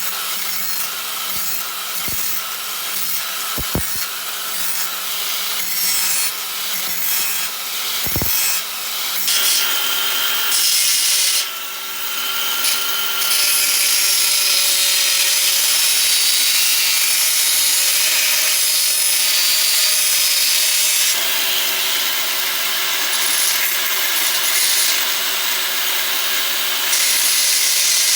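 Workshop tool scraping and grinding, with a few sharp knocks early on, becoming louder and steadier about halfway through.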